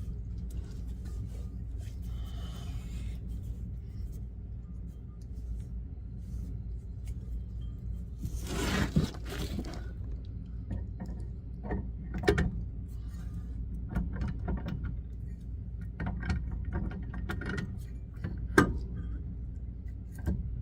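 Metal clanks and knocks as a heavy truck power divider is lifted and worked into place on the drive axle, over a steady low hum. A rushing noise comes about halfway through, followed by several sharp clanks, the loudest near the end.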